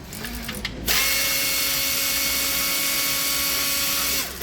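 A handheld power tool running at a steady whine for about three seconds, winding down in pitch as it stops, then triggered again briefly at the end, with a few light clicks before it starts.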